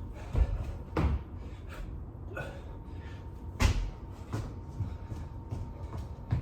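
Irregular thumps and knocks of a person doing burpees with push-ups on the floor, hands and feet landing, the heaviest thumps about half a second, one second and three and a half seconds in.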